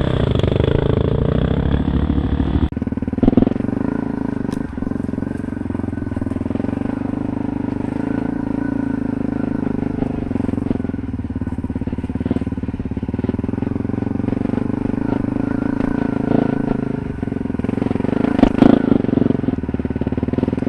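Enduro dirt bike engine running, revving unevenly for the first couple of seconds, then idling steadily. A few sharp knocks come over it, a cluster of them near the end.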